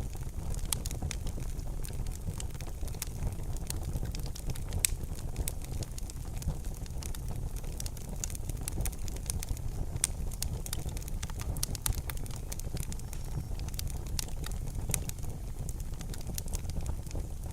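Wood fire burning in a fireplace: a steady low rumble of the flames with frequent sharp crackles and pops, one louder pop about five seconds in.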